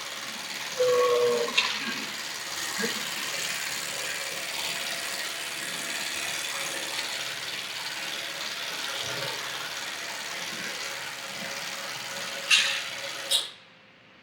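The machinery of El Ajedrecista, Torres Quevedo's 1920 electromechanical chess automaton, running steadily: turning shafts and moving parts make a constant whirr. There is a short buzzing tone about a second in and sharp clicks near the end, and then the mechanism stops suddenly.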